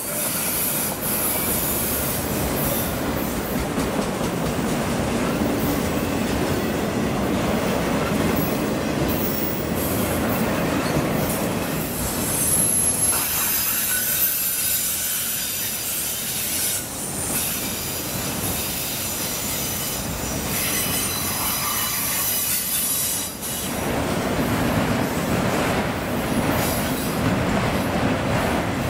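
Freight train of autorack cars rolling past close by, a steady rumble of wheels on rail with high-pitched wheel squeal.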